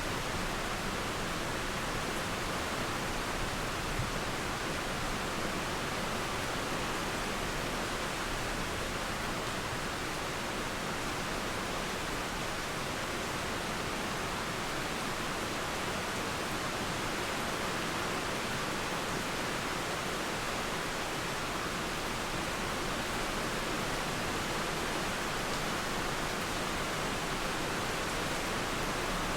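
Steady rain mixed with a flowing river, an even hiss without breaks or thunder.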